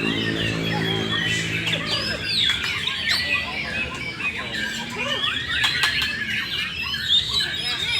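Several white-rumped shamas singing over one another: a dense, continuous chorus of overlapping whistles and trills. A low steady hum runs under it for the first two and a half seconds.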